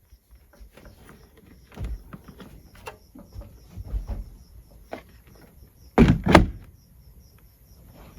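Scattered clicks and knocks of things being handled, with two loud knocks in quick succession about six seconds in; a faint, evenly repeating high ticking runs underneath.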